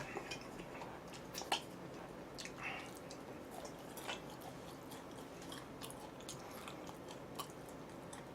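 Faint close-up chewing of food, with scattered small clicks and smacks of the mouth; the clearest come about a second and a half in, at about four seconds and near the end.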